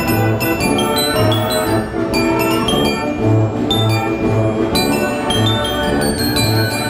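Wurlitzer 157 band organ playing a tune: bass pipes on a steady beat under brass-toned pipes, with bells ringing out the melody.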